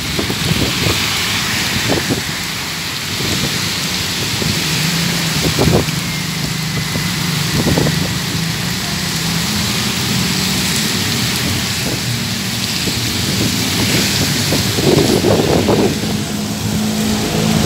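Heavy rain pouring steadily onto a city street, with cars passing on the wet road and a low engine hum from traffic.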